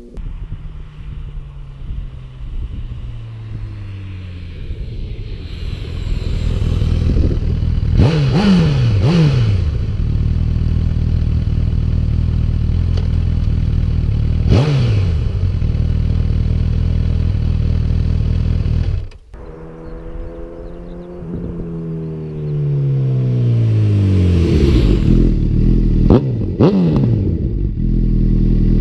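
Honda CB1000R inline-four engine through a Yoshimura R-77 exhaust, blipped up in sharp quick revs several times and then running, with the revs sliding back down after each rise.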